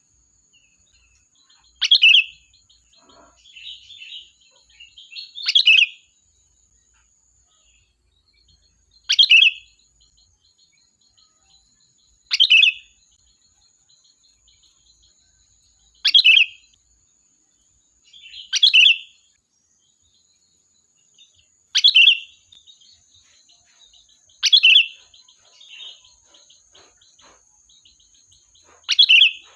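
Sooty-headed bulbul (kutilang) giving short, loud call phrases, nine times, about every three seconds, each a quick downward-sweeping burst.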